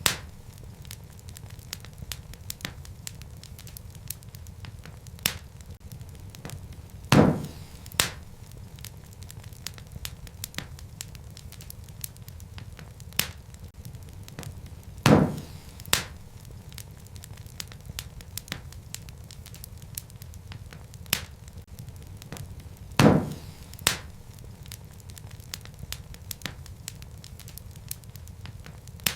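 Wood fire burning in a fireplace: a steady low rumble of flames with constant small crackles and a loud pop of the burning logs about every eight seconds, each followed by a smaller snap.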